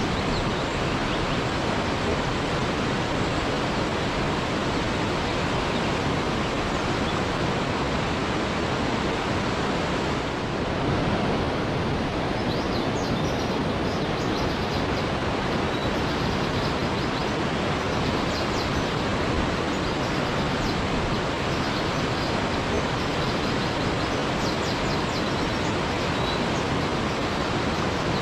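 Waterfall rushing in a steady, even roar of water. A few faint high chirps sound over it in the second half.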